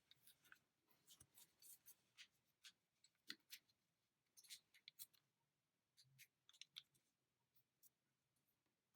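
Faint, scattered crinkles and small taps of a square of origami paper being folded and creased by hand, with the two bottom edges folded in to the center.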